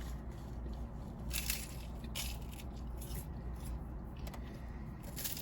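Someone chewing and crunching food, with a few short, sharp crunches about a second and a half in, a little after two seconds in, and near the end, over a steady low hum.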